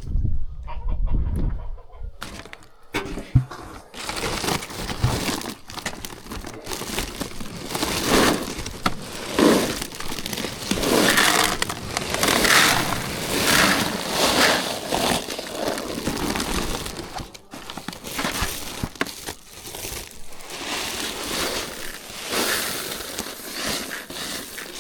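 A flock of chickens clucking together, many overlapping calls forming a continuous chatter from about four seconds in. A few knocks come before the flock noise builds.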